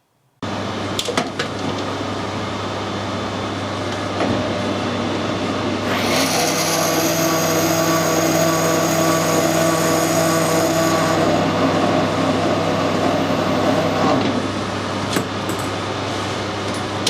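Metal lathe running steadily while turning a brass part. From about six seconds in, a whining cutting sound with several steady tones rises over the motor hum for about five seconds, then eases back.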